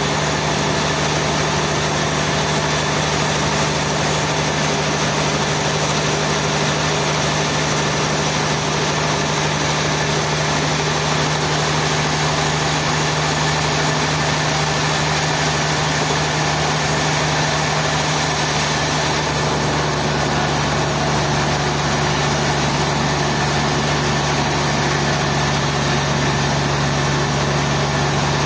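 Sawmill machinery engine running steadily: a constant hum with a strong low drone that holds an even level throughout.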